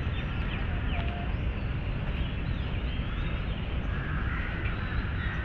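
Outdoor park ambience: scattered short bird chirps and calls over a steady low rumble of background noise.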